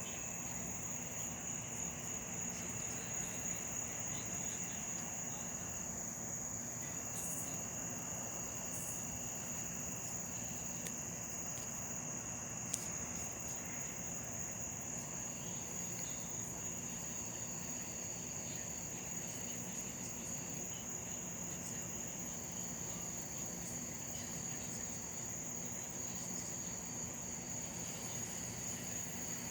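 Steady high-pitched insect chorus of chirring crickets, with fainter lower-pitched insect calls coming and going, and a single faint click about halfway through.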